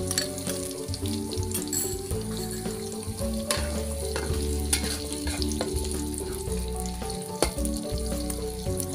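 Beaten egg frying in hot oil in a metal wok, sizzling steadily, while a metal spatula stirs and scrapes it with scattered sharp clicks against the pan.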